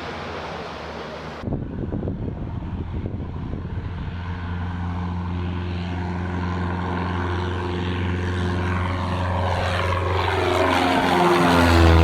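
Light propeller aircraft's piston engine running steadily, growing louder as it comes closer and loudest near the end. The first second and a half is wind noise before the engine sound takes over abruptly.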